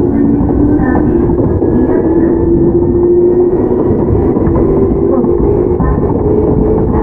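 Inside a Toyama Chiho Railway 17480-series field-chopper electric car (ex-Tokyu 8090) while running: steady rumble of wheels and running gear with a traction-motor whine that rises slightly in pitch over the first few seconds and then holds.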